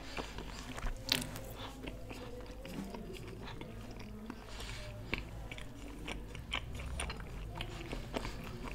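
Close-miked chewing of food, with many irregular wet mouth clicks and smacks; the sharpest click comes about a second in.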